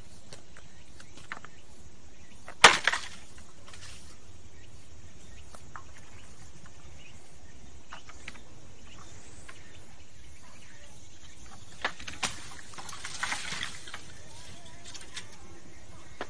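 A sharp snap about three seconds in, a couple of smaller clicks later and a short stretch of rustling, over a steady outdoor hiss.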